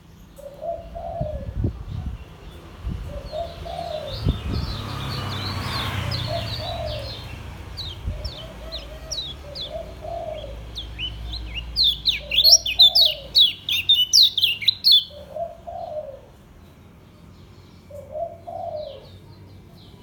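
Kecial kuning, a Lombok white-eye, singing in quick bursts of high, sharp, sliding twitters; the densest and loudest run comes about twelve to fifteen seconds in. Behind it a dove coos steadily, a low call repeated about every second and a bit.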